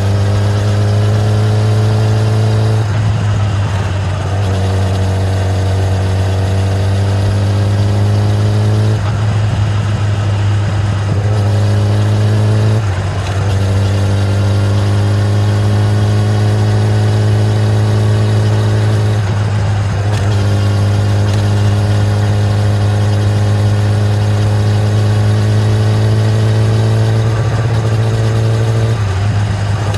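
A 2013 Kawasaki ZX-10R's inline-four engine running through its stock exhaust under way. Its note climbs slowly and is cut by a brief dip about five times, every four to ten seconds, as at gear changes or throttle lifts.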